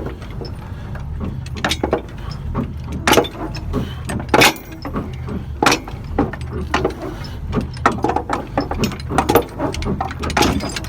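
A heavy diesel engine runs steadily underneath a string of sharp, irregular metal knocks and clanks from work on the truck's hitch and latch gear.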